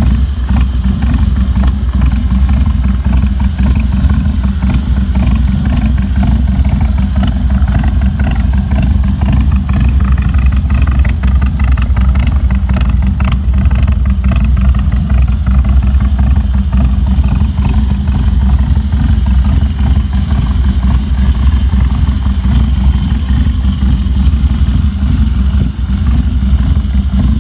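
Harley-Davidson Twin Cam 88 V-twin engine of a 2002 Dyna Low Rider running loudly and steadily through a stainless Thrashin Supply exhaust, a deep, fast, uneven firing beat.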